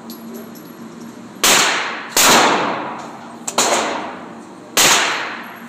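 Four gunshots at a shooting range, irregularly spaced, each a sharp crack that rings out and fades over about half a second.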